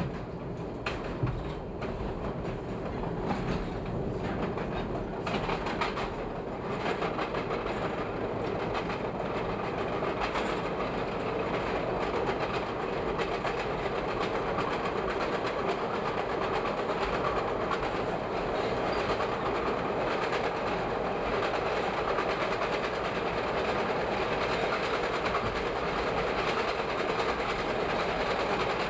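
Chicago 'L' rapid-transit train running on open track, heard from inside the car: wheels clacking sharply over the switches and rail joints for the first several seconds, then a steadier rolling rumble that slowly grows louder as the train picks up speed.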